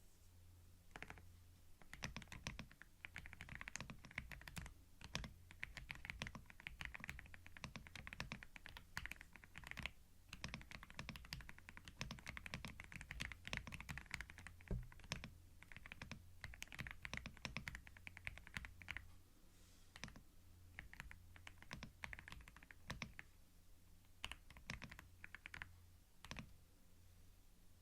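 Typing on a computer keyboard, close to binaural microphones: irregular runs of quick key clicks with short pauses between them. A faint steady low hum lies underneath.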